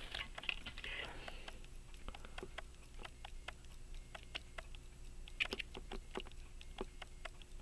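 Small, irregular clicks and taps of steel tweezers and tiny parts during pocket watch reassembly, with a quick cluster of clicks about five and a half seconds in.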